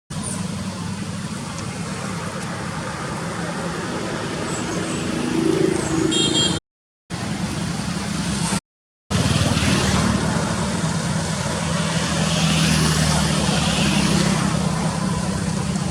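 Motor vehicle engines running steadily with a low hum, the sound of road traffic, cut off dead twice by edits.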